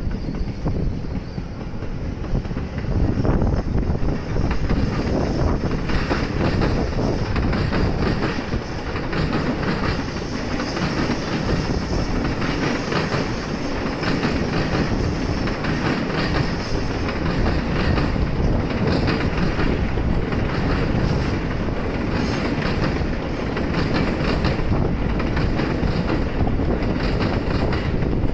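JR train passing on the tracks below, a steady rumble broken by repeated wheel clicks over the rail joints. It grows louder about three seconds in.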